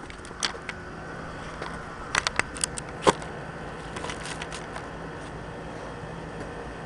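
Mini bike engine idling steadily, with a few sharp clicks and knocks close to the microphone, the loudest about three seconds in.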